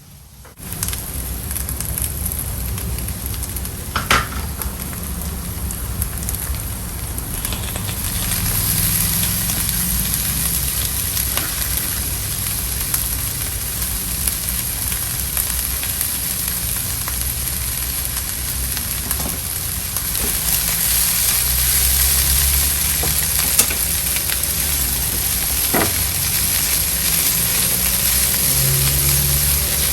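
Noodles frying with a steady sizzle in a hot pan. It starts suddenly about half a second in, and now and then a utensil clinks as the noodles are stirred.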